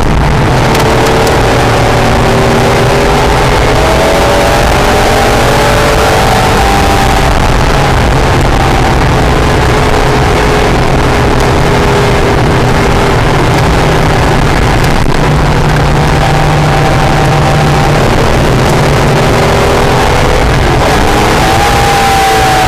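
Acura/Honda NSX's mid-mounted V6 driven hard around a race track, its engine note rising and falling in pitch as the car accelerates and lifts. Constant loud wind and road noise runs underneath.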